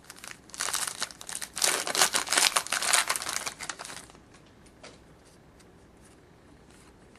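A 2011-12 Contenders hockey card pack wrapper being torn open and crinkled, the crackling running from about half a second to four seconds in, followed by a few faint clicks.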